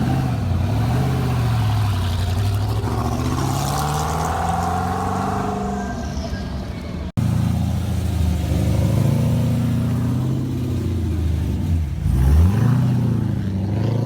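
Performance car engines revving and accelerating, their pitch climbing and dropping. The sound cuts abruptly about seven seconds in, and near the end one engine's pitch dips sharply and then climbs again.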